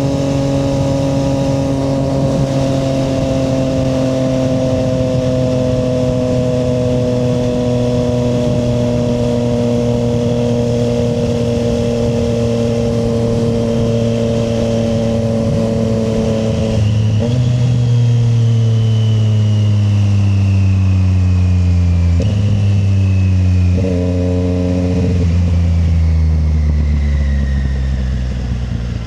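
Triumph Street Triple 765 RS inline-three motorcycle engine running under way, its note falling slowly as the bike eases off. About two-thirds of the way in the engine gets louder, and several gear changes follow, each lifting the revs briefly before they fall again.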